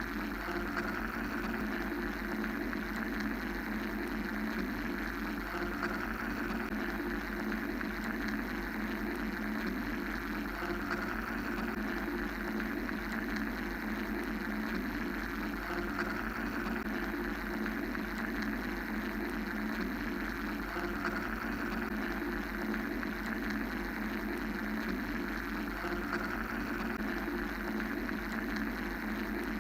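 Steady mechanical white-noise drone, a constant hum and hiss with a low rumble, a mid hum and an upper hiss band that slowly swells and fades every few seconds.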